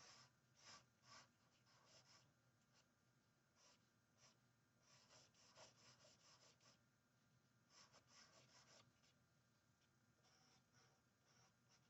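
Faint scratching of a charcoal pencil on paper: clusters of quick, short sketching strokes, stopping and starting in bursts.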